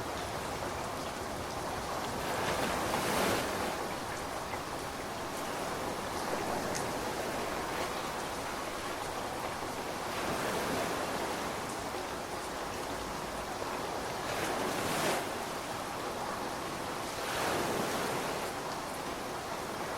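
Steady rainfall, an even hiss of drops that swells louder several times.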